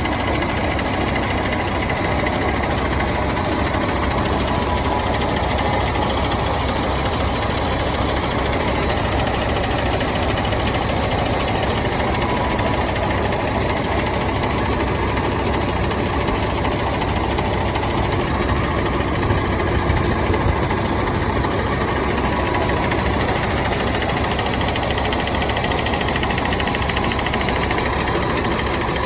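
Bus diesel engine idling steadily as it warms up, with an even, continuous clatter; it gets slightly louder for a moment about two-thirds of the way in.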